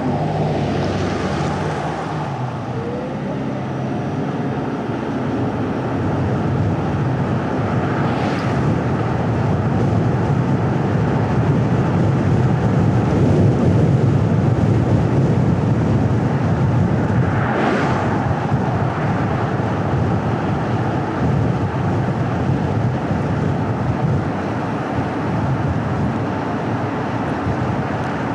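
A car being driven on a winding hill road: steady tyre, road and engine noise with some wind, growing a little louder midway. Three brief whooshes pass over it, near the start, about eight seconds in and about eighteen seconds in.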